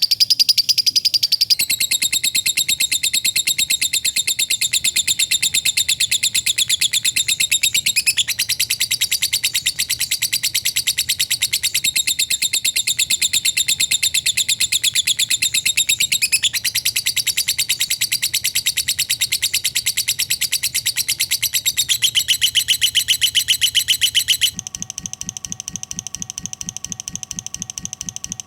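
A lovebird's long 'ngekek' chatter: a continuous, very fast run of tightly packed high chirps with no breaks. The chatter gets quieter and changes pattern for the last few seconds.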